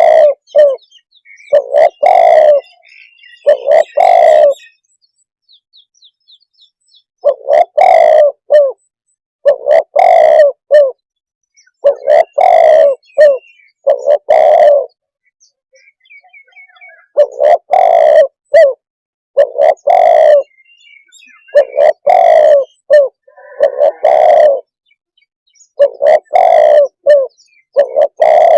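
Spotted dove cooing: loud, low coo phrases repeated about every two seconds in runs, broken by pauses of one to two seconds. Faint high chirps of small birds come between the phrases.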